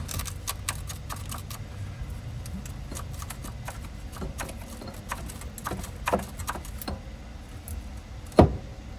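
Metal tools and parts clinking and rattling as they are handled during axle removal, with one loud knock near the end, over a steady low hum.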